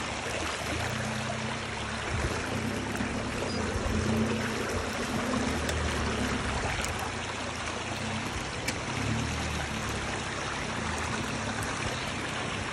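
Suzuki Jimny's engine running under load off-road, its revs rising and falling every second or two, beneath a steady rushing hiss.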